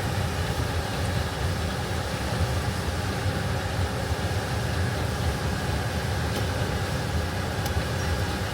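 Heavy diesel farm machinery engine running steadily: a low, even drone.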